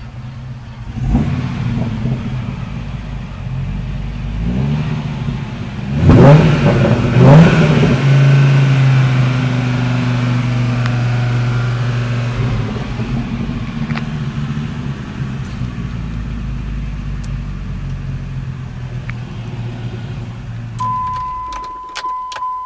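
The Dodge Ram SRT-10's 8.3-litre V10 is revved: a short blip about a second in, another around four seconds, and two sharp revs about six and seven seconds in. It then settles into a fast idle that slowly eases down. The engine is shut off near the end, followed by a steady electronic tone and a few clicks.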